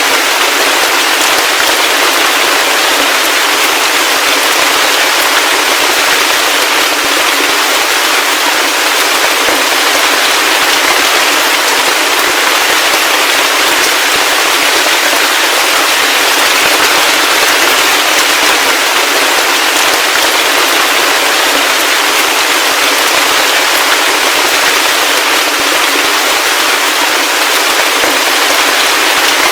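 Heavy rain falling: a steady, loud, even wash of dense drops that keeps up without a break.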